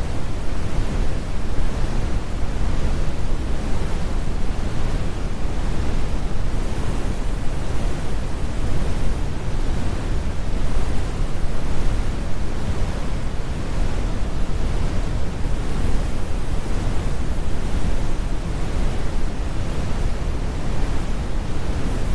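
Steady synthetic brown noise: a deep, even rumble, strongest in the lows, with the highs rolled off and nothing changing.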